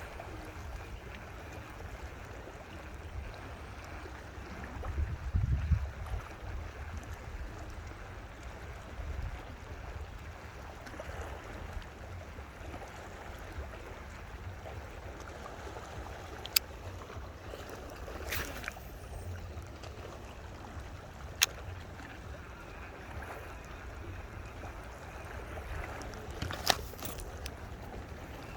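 Steady outdoor background noise beside water, with a strong low rumble throughout. A dull thump comes about five seconds in, and a few sharp clicks follow later.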